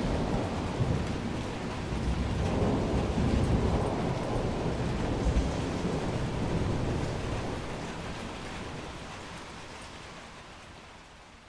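Thunderstorm: low rolling thunder over steady rain. The rumble fades away over the second half.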